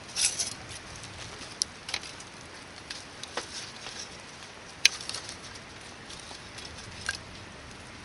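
Hardwood campfire burning with a steady soft hiss and a few sharp, scattered crackles and pops, the loudest about five seconds in.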